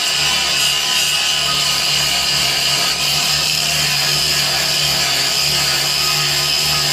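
Angle grinder running steadily under load, its disc grinding the rusted face of a quarter-inch steel plate, a continuous loud whine with a constant low motor hum beneath.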